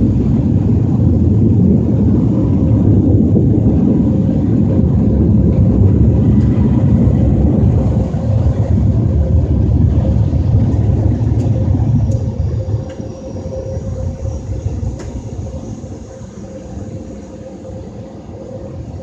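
Ryko SoftGloss Maxx 5 car wash dryer blowers running as a loud, steady low rumble with a faint steady hum, then dropping away about twelve seconds in and fading further.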